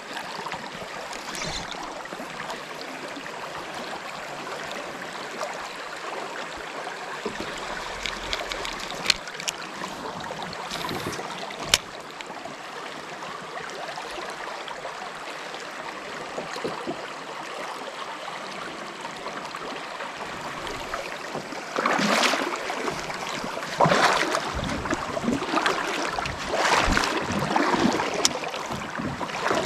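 Creek water running steadily, with two sharp clicks about a third of the way in, then louder, irregular sloshing and splashing of water over the last several seconds.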